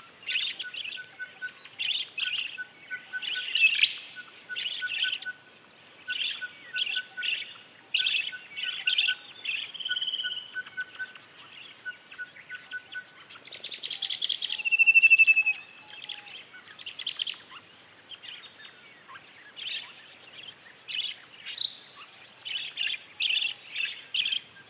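Rufous-vented whitetip hummingbird calling in a long series of short chirps. Under them runs a faint, even string of ticks until about halfway, and about two-thirds through comes a louder rapid trill with a brief whistle.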